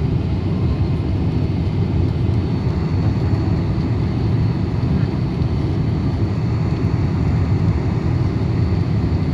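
Boeing 747-400 jet noise: a steady low rumble with a faint thin high whine running through it.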